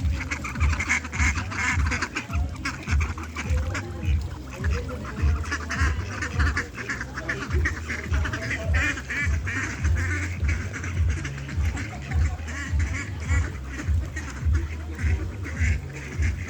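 A flock of domestic waterfowl calling, with many short calls overlapping continuously.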